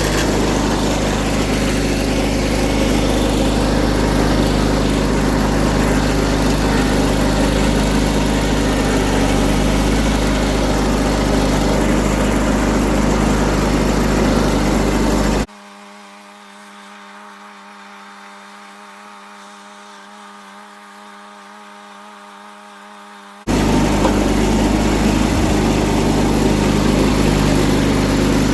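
John Deere 317 garden tractor running steadily under load, driving its rear tiller through the garden soil. About fifteen seconds in the sound drops suddenly to a much quieter, thin hum for about eight seconds, then comes back just as abruptly.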